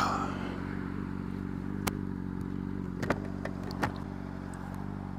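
2009 Honda CBR600RR's inline-four engine running at a steady, even pitch, with a few short clicks about two, three and four seconds in.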